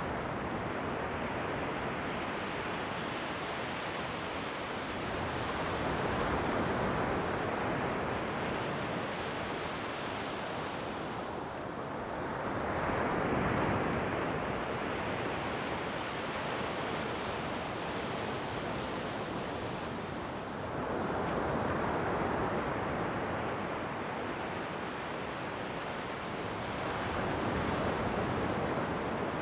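Ocean waves breaking and washing on a shore, a steady rush of surf that swells four times, roughly every seven seconds.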